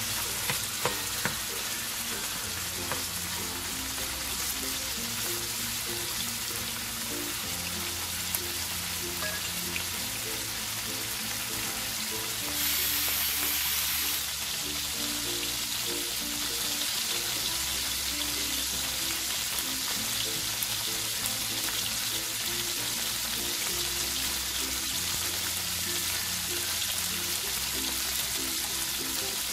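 Food sizzling steadily in hot oil in a pan as it is sautéed and stirred, with a few sharp clicks near the start and a louder surge of sizzling for about a second and a half midway.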